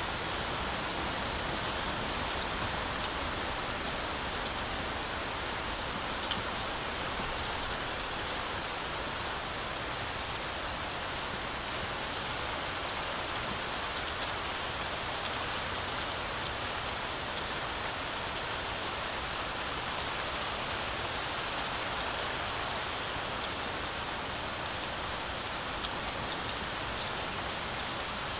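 Heavy rain falling steadily on forest foliage, a dense even hiss with scattered individual drops.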